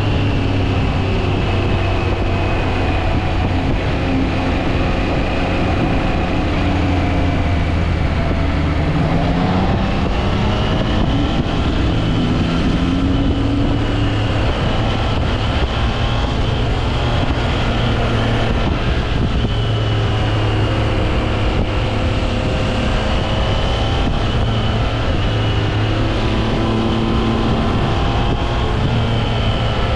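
Triumph Trident 660's inline three-cylinder engine running under way on a ride. The revs rise and ease off repeatedly, with a clear climb about a third of the way through. Wind noise on the microphone is mixed in.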